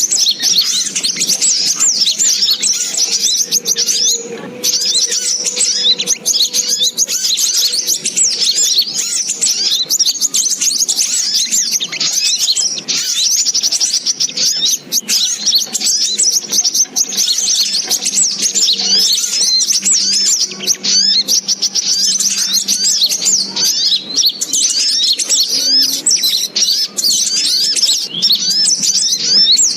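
Little spiderhunter (sogok ontong) calls: dense, unbroken, rapid high chirping, a lure recording used for trapping birds.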